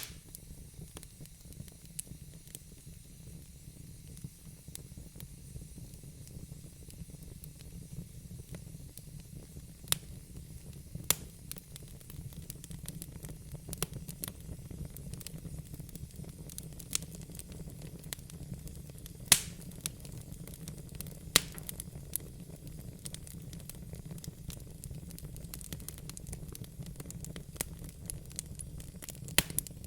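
Wood fire burning in a fireplace: a steady low rumble of flames with scattered sharp crackles and pops, the loudest about two-thirds of the way through.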